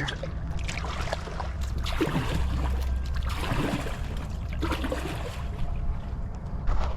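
Canoe paddle strokes swishing through shallow marsh water, with water dripping and trickling off the blade, over a steady low rumble.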